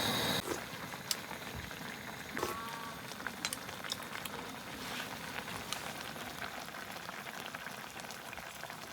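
Food cooking in a pot or pan, bubbling and sizzling steadily with scattered small pops.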